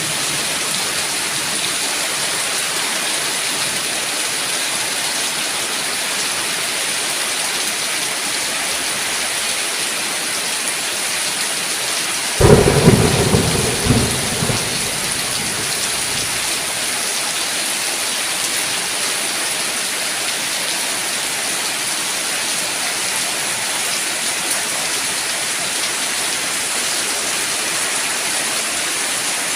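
Steady heavy rainfall, with a single sudden thunderclap a little before halfway that rumbles and dies away over about two seconds.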